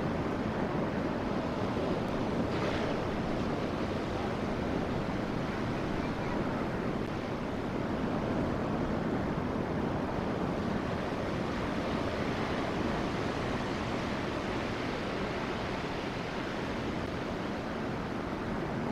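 Steady rushing of sea surf mixed with wind noise on the microphone, with no horn or other distinct event standing out.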